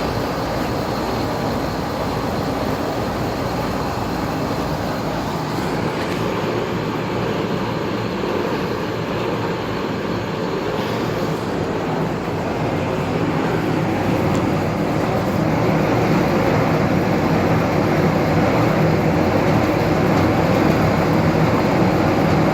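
1992 Carrier Tech2000 4-ton central air conditioner running in cooling mode: a steady low hum from the compressor and GE motor under the even rush of the condenser fan. It grows a little louder about two-thirds of the way through.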